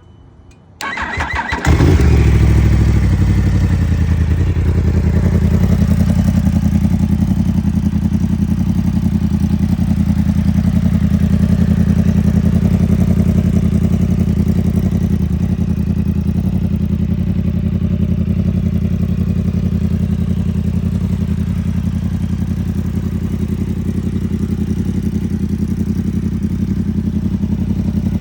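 2020 Yamaha YZF-R1's crossplane inline-four with a Two Brothers Racing exhaust: the starter cranks briefly, the engine catches with a loud burst about two seconds in, then idles steadily, the idle settling lower a few seconds later.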